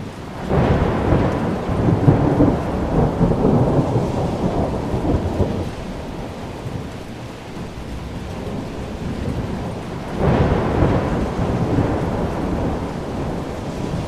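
Thunder rumbling over steady rain. Two rolls of thunder come in, the first about half a second in and lasting about five seconds, the second about ten seconds in and slowly fading.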